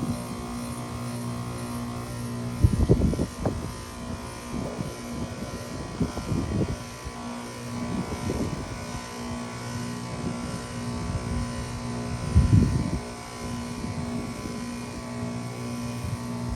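2020 Trane XR heat pump outdoor unit humming steadily during its defrost cycle. Several irregular low rumbles come and go over the hum, the loudest about three seconds in and again near twelve and a half seconds.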